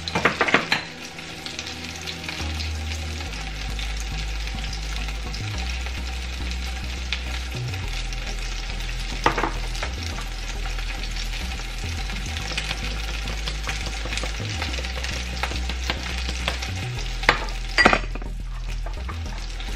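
Spaghetti in a butter, lemon and sour-cream sauce sizzling steadily in a nonstick frying pan on a gas burner, with a few short knocks near the start, about halfway and near the end.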